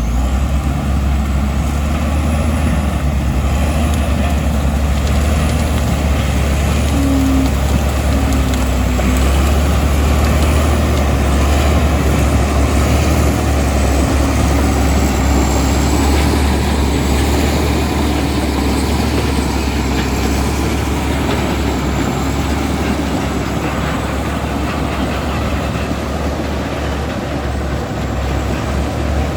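Komatsu D65E bulldozer's diesel engine running steadily with a deep, even rumble.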